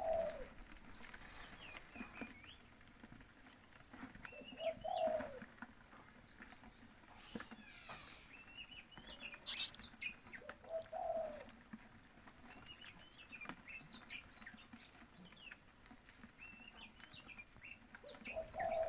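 Birds calling: many short, high chirps, with a lower call repeating about every six seconds. A single sharp click comes about halfway through and is the loudest sound.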